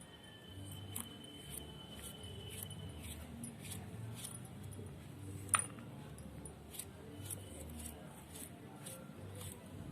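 Green parrot eating a vegetable: small irregular clicks and crunches from its beak, with one sharper click a little past halfway.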